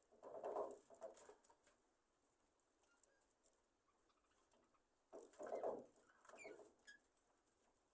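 Faint rustling and fluttering of budgerigars' wings and feathers in two short bursts, in the first two seconds and again about five seconds in, with a few soft chirps near the end.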